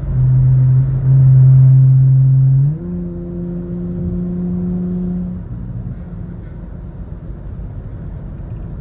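Car engine droning steadily at cruising speed, a loud even hum. About three seconds in its pitch steps up and it gets quieter, and after about five seconds it fades into low road noise.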